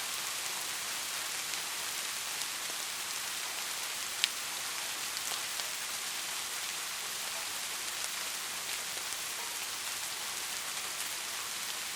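Steady rain: a dense, even hiss with scattered individual drops ticking through it, and one sharper, louder drop about four seconds in.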